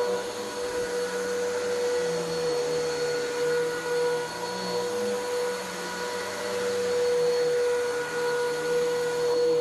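Vacuum cleaner running steadily over carpet, pulling up dry soil, with a constant motor whine.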